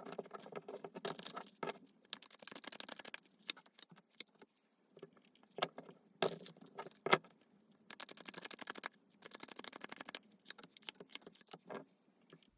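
A deck of tarot cards being shuffled by hand: bursts of quick flicking and clattering, with a couple of sharper single clacks in the middle.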